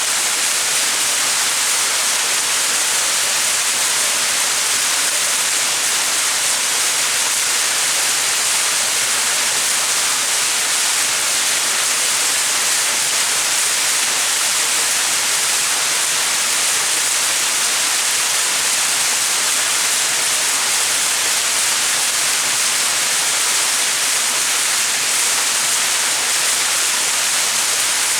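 Small mountain waterfall: water falling and splashing in a steady, even rush, mostly high-pitched hiss with little low rumble.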